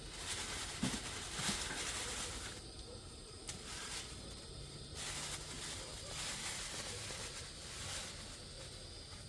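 Gusty wind blowing, a hiss that swells and fades every second or two, with a few faint knocks.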